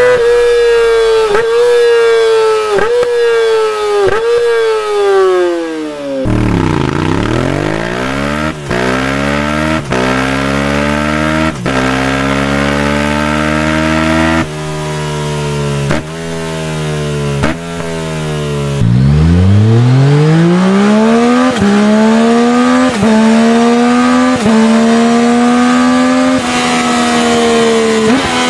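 Yamaha R-series sport bike's exhaust accelerating hard through the gears: the engine note climbs in each gear and breaks sharply at each quick upshift, roughly every second and a half. Twice the note starts low and builds up again through another run of shifts.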